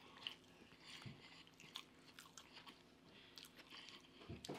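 Faint chewing and crunching of fried catfish, with scattered small crackles and mouth clicks and a slightly louder crunch near the end.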